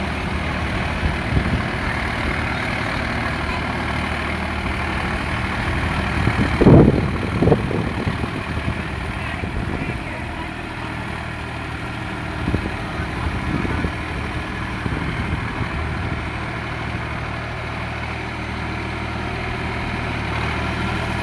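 Sonalika RX 47 four-wheel-drive tractor's diesel engine running steadily, with a short louder burst of sound about seven seconds in.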